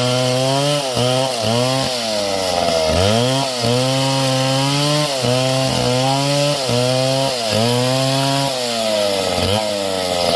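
Two-stroke chainsaw cutting wood. The engine runs at high revs and sags in pitch again and again as the chain bogs in the cut, then picks back up, with a deeper, longer dip about three seconds in.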